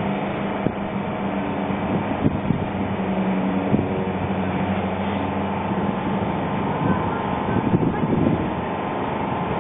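VL82M electric locomotive with a passenger train, a steady electrical hum under a noisy mechanical rumble. There are a few single knocks in the first four seconds and a short run of clattering knocks near the end.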